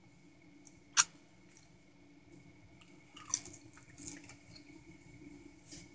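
Close, wet mouth sounds of a man chewing food: one sharp click about a second in, then a cluster of short smacking sounds in the middle and another near the end, over a faint steady hum.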